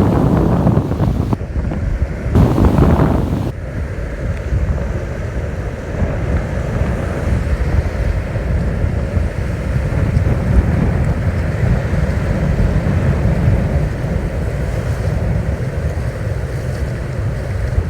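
Wind buffeting the microphone over the steady wash of surf, with the strongest gusts in the first few seconds.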